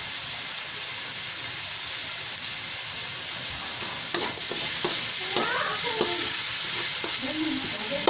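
Chopped garlic and onion sizzling in hot oil in a wok, a steady frying hiss. From about halfway through, a spatula stirs them and scrapes and knocks against the pan.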